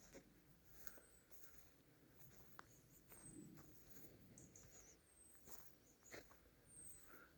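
Faint forest ambience: soft scattered crackles and rustles of footsteps on the leafy forest floor. A small bird repeats a thin, very high falling note about every two seconds.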